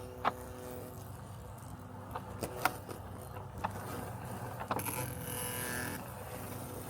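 Robotic lawn mower running with a steady low hum, broken by several sharp clicks and knocks and a brief hiss about five seconds in.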